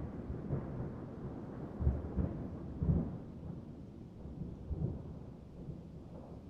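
Rolling thunder: a low rumble broken by several sharper cracks in the first half, dying away toward the end, with rain underneath.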